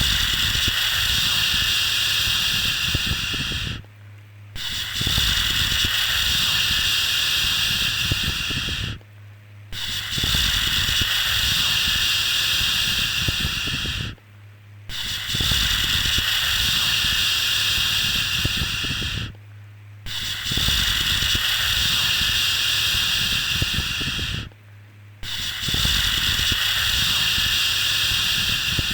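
A looping 'shhh' shushing sound for soothing a baby: long hissing shushes of about four seconds each, repeated with short breaks about every five seconds, six in all, over a steady low hum.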